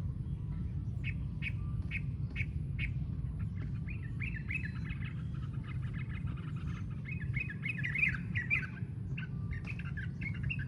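Bird calling, which the uploader calls a Luklak bird: a run of short, sharp calls about every half second, then quick chattering, squawky phrases. A steady low rumble runs underneath.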